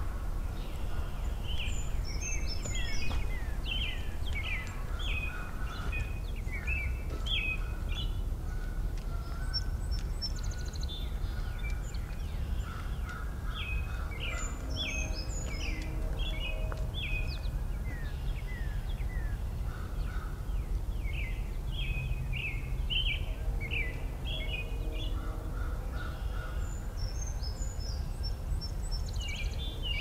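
Several songbirds singing and chirping at once, the song coming in bouts of quick notes with short lulls between, over a steady low background rumble.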